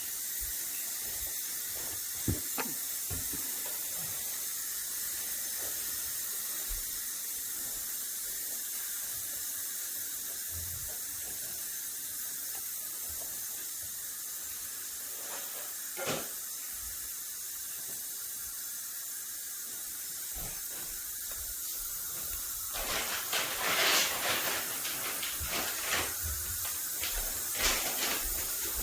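Steady high hiss, with a few sharp knocks and, about three-quarters of the way in, a run of short rustling or scraping sounds.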